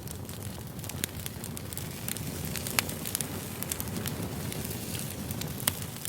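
Campfire burning: a steady low rush of flames with scattered sharp crackles and pops of wood.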